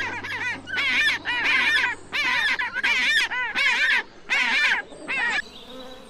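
An animal calling in a run of about eight short bursts of quick, wavering, high-pitched notes, stopping about five seconds in.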